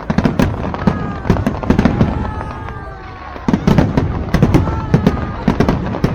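Fireworks going off in a dense run of sharp bangs and crackles, with a short lull about halfway through. Several falling whistles sound among the bangs.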